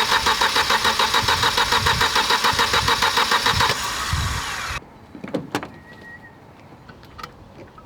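A loud mechanical sound pulsing rapidly, about eleven times a second. It eases a little near 4 s and cuts off about 5 s in, followed by a few light clicks and knocks.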